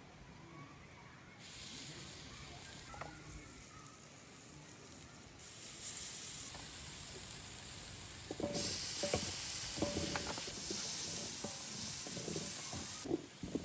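Food sizzling in hot oil in a cooking pot while a spoon stirs and scrapes, with short knocks of the spoon against the pot. The sizzle steps up louder about a second and a half, five and a half and eight and a half seconds in, and cuts off shortly before the end.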